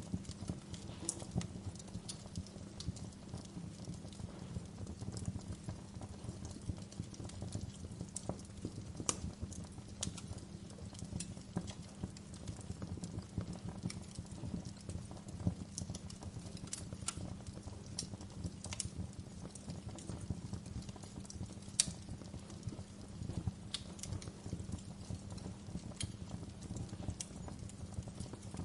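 Fire crackling in a fireplace: irregular sharp pops and snaps over a steady low rumble of the flames, with one louder pop near the end.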